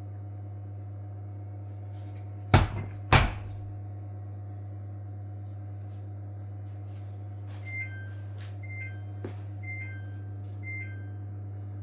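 Samsung washing machine running on test with a steady low hum. Two loud knocks come a couple of seconds in. Later there are four short electronic beeps from the control panel, about a second apart.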